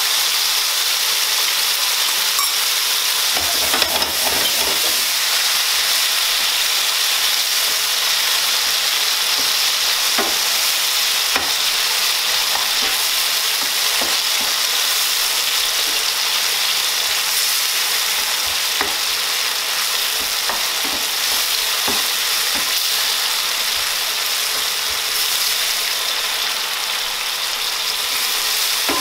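Sliced mushrooms and chopped garlic sizzling steadily in olive oil in a frying pan, stirred with a wooden spoon that scrapes and taps against the pan now and then.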